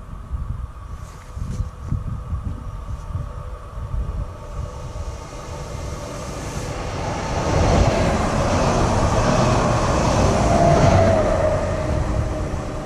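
A train passing at speed, growing louder as it approaches and loudest from about eight to eleven seconds in, with a rushing hiss and a steady whine, then easing off as it goes by.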